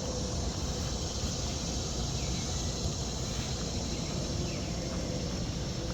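Insects trilling steadily in the background over a low, even hum.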